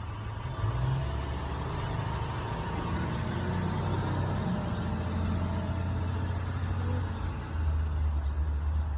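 School bus engine running with a steady low rumble as it moves off, swelling about a second in and again near the end.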